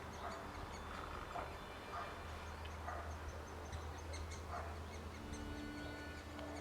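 Birds calling: short calls about once a second, with many fainter high chirps in between, over a steady low rumble.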